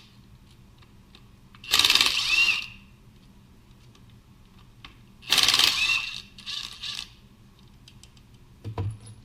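Hand tools working metal parts on a Kubota tractor's clutch lever and housing: two loud bursts of metal scraping, about two and five seconds in, each ending in a short ring, then a lighter clatter and a dull knock near the end.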